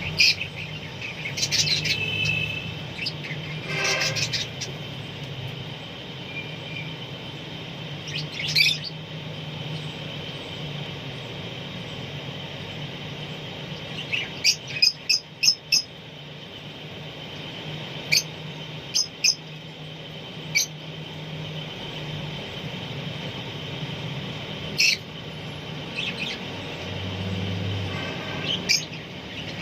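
Parrots giving short, sharp, high-pitched chirping calls at scattered intervals, with a quick run of four calls about halfway through, over a steady low hum.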